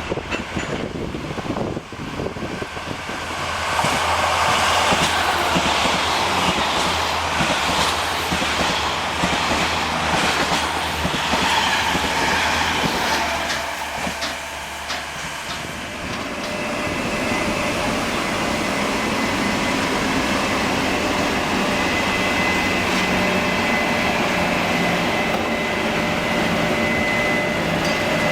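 Passenger train passing through a station at speed, its wheels clattering rapidly over the rail joints. About two-thirds of the way in the sound changes to a steady, high-pitched squeal or whine from the train that holds to the end.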